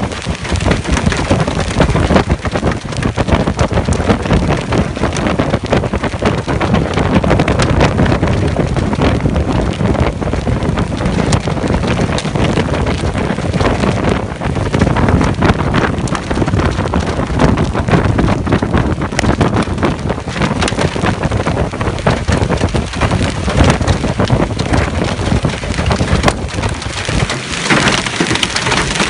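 Hailstones pelting down on hard surfaces: a loud, dense, continuous clatter of countless small impacts.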